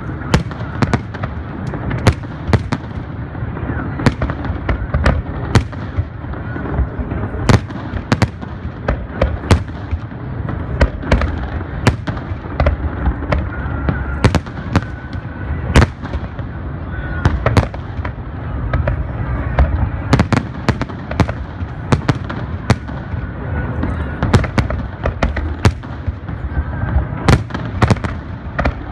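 Aerial fireworks shells bursting: frequent sharp bangs at irregular intervals, sometimes two or three close together, over a continuous low rumble and crackle.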